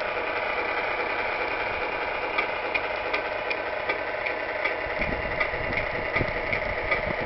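Electronically simulated diesel truck engine idling steadily, played through the sound unit's small speaker in a Tamiya 1/14 Scania R620 RC truck. A little over two seconds in, a regular light ticking starts at about three ticks a second and keeps on over the idle.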